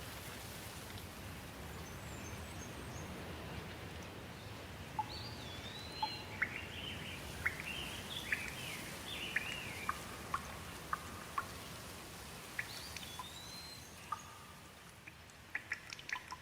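Steady rain with birds calling over it: a rising-then-falling whistle about five seconds in and again near the end, with a run of short chirps between. The rain thins out near the end, and a quick cluster of sharp ticks starts.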